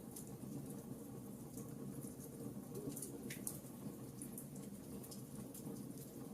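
Wood fire burning in a fireplace, crackling with scattered sharp pops over a steady low rumble, with one sharper crack about three seconds in.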